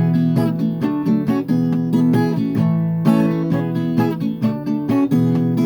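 Acoustic guitar strummed in a steady rhythm, playing chords between sung lines.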